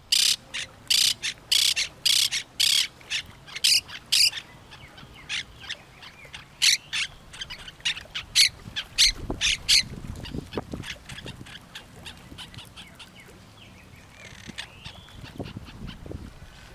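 Parrots squawking: a run of loud, harsh calls about two a second, a pause, a second run, then fainter scattered calls. A low rumble comes in about nine seconds in.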